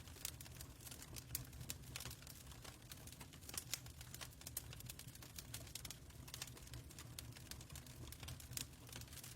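Fireplace crackling: irregular sharp pops and snaps of varying strength over a steady low rumble of the fire.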